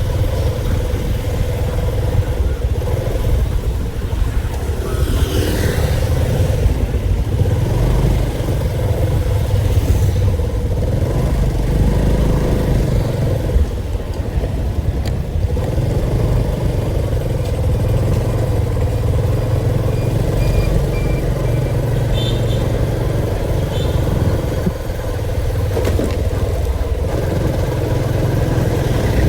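A motor vehicle's engine running steadily, with a continuous low rumble and a held hum.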